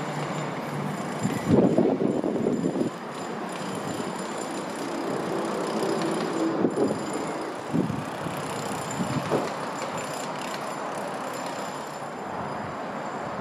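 Northern Class 319 electric multiple unit running along the platform: a steady rush of wheel and running noise, with a cluster of knocks from the wheels over rail joints about one and a half to three seconds in and a few more later.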